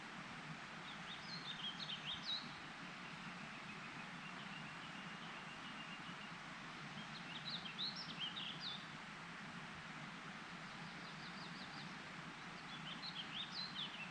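A songbird singing three short, quick phrases of jumbled high notes, about five seconds apart, with a brief high trill between the last two, over a steady background hiss.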